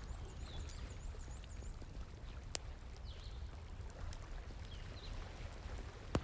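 Campfire crackling with fine snaps and two sharp pops, over the steady rush of flowing water, with a few faint high chirps.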